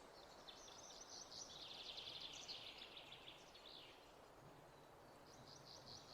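Faint songbird trilling: one rapid trill of a few seconds that drops a little in pitch, then a shorter trill near the end, over a soft steady background hiss.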